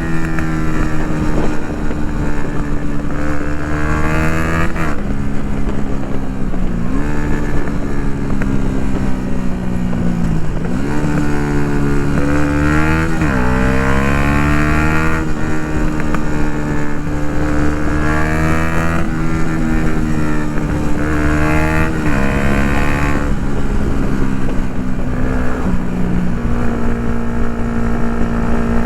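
2016 Yamaha MT-125's single-cylinder four-stroke through a full Akrapovic exhaust, ridden hard. The engine note climbs under throttle and drops abruptly at gear changes several times, with steadier cruising stretches in between.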